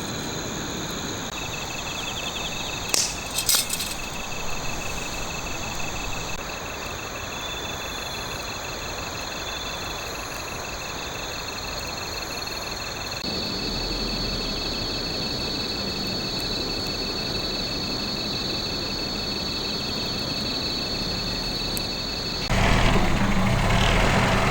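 Crickets and other autumn insects trilling steadily in several high, pulsing tones over a low background rumble. Two sharp clicks come about three seconds in, and near the end a louder low rumble comes in suddenly.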